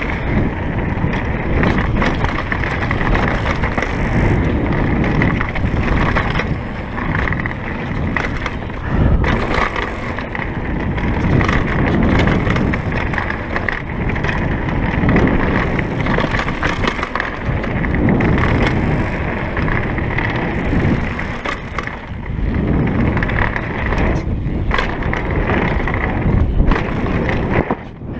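Kona Stinky downhill mountain bike rolling fast down a rough trail: a continuous rush of tyres over dirt and rock, with frequent knocks and rattles as the bike hits bumps.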